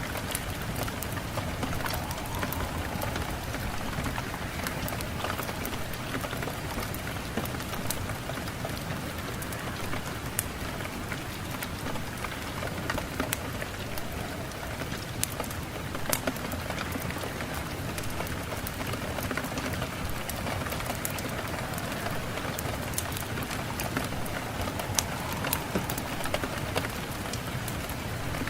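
Steady rain falling on a surface, a constant hiss with many sharp individual drop ticks scattered through it.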